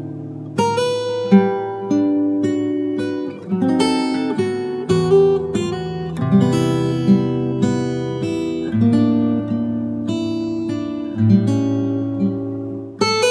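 Relaxing acoustic guitar music: slow plucked and strummed chords ringing over a low bass line.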